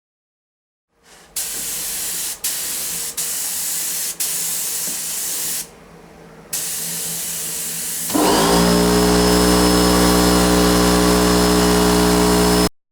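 Hissing in several bursts with short breaks. About eight seconds in, a motor spins up with a rising whine and then runs steadily alongside the hiss, until both cut off suddenly.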